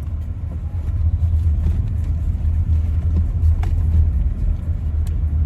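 Steady low rumble of a car driving on the road, heard from inside the cabin, with a few faint clicks.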